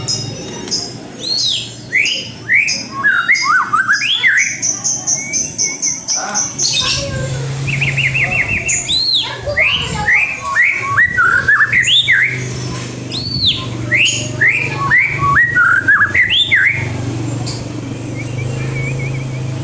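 White-rumped shama singing: a fast, varied run of slurred whistled notes mixed with high, rapid trills, broken by a short pause a third of the way in. A steady low hum runs underneath.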